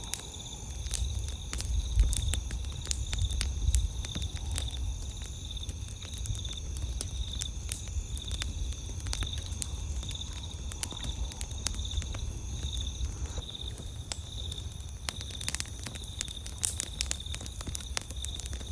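Campfire crackling, with many sharp pops that come thicker near the end, over a low rumble. Insects chirp steadily in the background in a fast, pulsing trill.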